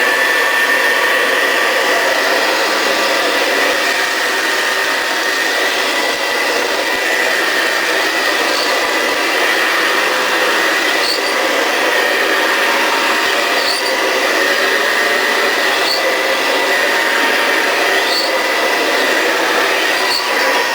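Hoover Convertible Model 33 upright vacuum cleaner from the 1960s running at full speed, its motor giving a steady high whine that settles into pitch in the first second. Faint short ticks come about every two seconds in the second half.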